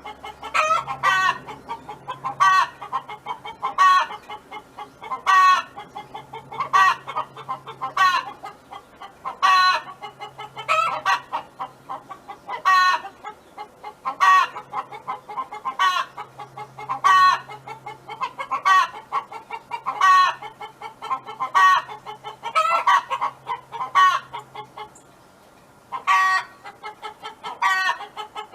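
Domestic hen calling in a long repeated series, a short call about every second and a half, pausing briefly near the end.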